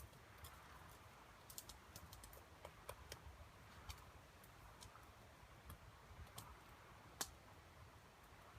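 Faint, irregular clicks and snaps of kindling, scattered and uneven, with one sharper snap about seven seconds in.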